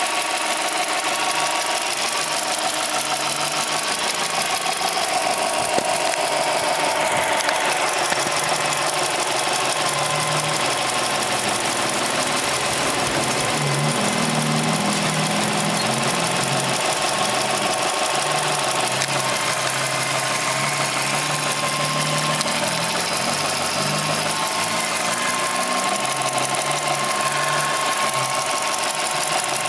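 Subaru EL15 1.5-litre flat-four engine running, with a steady, rapid knocking. The owner attributes the knock to the hydraulic timing-belt tensioner, an original NTN part at 75,000 km.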